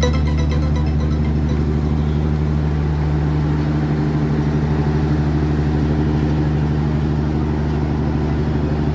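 Diesel train engine running with a steady deep hum that does not change in pitch.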